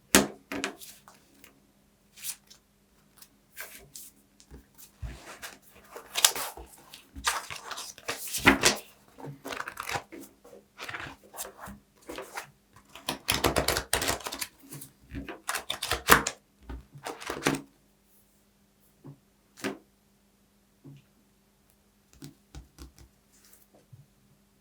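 Paper being handled close to the microphone: irregular crackling, rustling and tearing. The crackles come thick in the middle and thin out to a few scattered clicks near the end, over a faint steady low hum.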